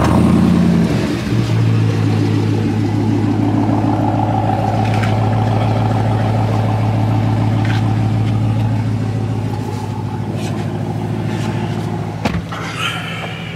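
A car engine just started, running at a raised idle for about a second and then settling to a steady idle. There is a single sharp knock near the end.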